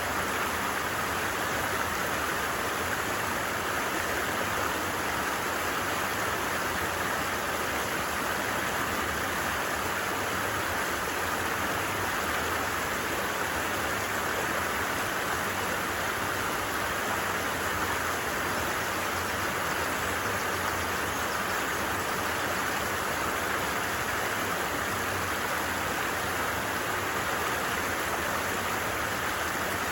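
A stream flowing, a steady, unbroken rush of water.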